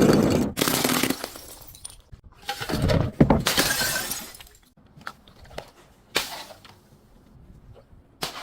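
Glass breaking: two loud smashes, the first at the very start and the second about three seconds in, each followed by a spill of ringing shards, then scattered smaller clinks and tinkles of broken glass, with a sharp hit about six seconds in and another near the end.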